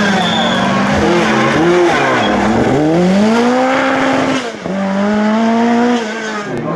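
Rally car engine revving hard under load, its pitch climbing and then dropping sharply at the gear changes, with a deep dip and a long rise in the middle and a sudden drop about four and a half seconds in.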